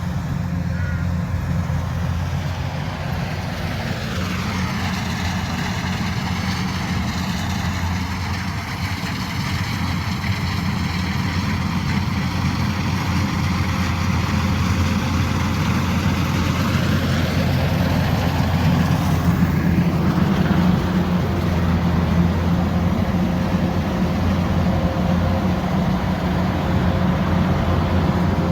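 Kubota combine harvester's diesel engine running steadily under load with a constant low hum; the tone of the machine noise sweeps slowly between about four and seventeen seconds in, and it grows a little louder after that.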